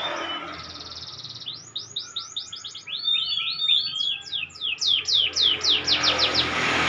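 A domestic canary practising its song. A short buzzy trill comes first, then a long run of rapid, repeated down-slurred whistled notes.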